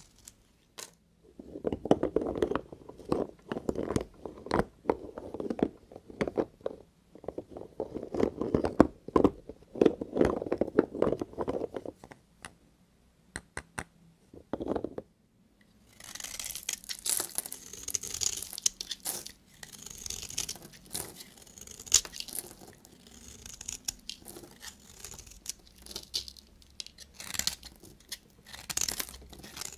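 Knife cutting through bars of soap in crunching, crackling strokes. A duller, deeper crunching in the first part gives way, after a short pause about halfway through, to a crisper, higher crackle.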